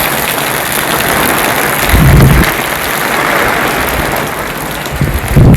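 Heavy downpour drumming steadily on a camp awning, a loud dense hiss, with a couple of low thuds about two seconds in and near the end.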